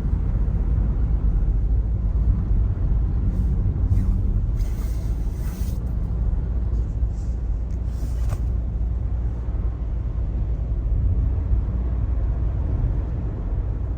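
Car driving on a snowy road, heard from inside the cabin: a steady low road rumble, with a few brief hissing swishes about four to six seconds in and again at about eight seconds.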